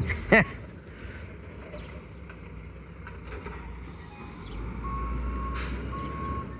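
Diesel garbage truck's engine running low, growing louder about five seconds in as its reversing alarm starts beeping about once a second, with a brief hiss partway through.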